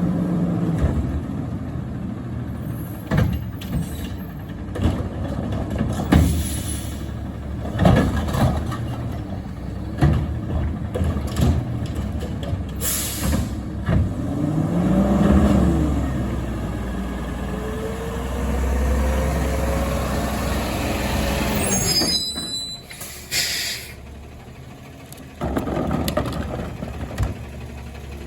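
Garbage truck at work: diesel engine running under knocks and bangs, whines that rise and fall, and short air-brake hisses.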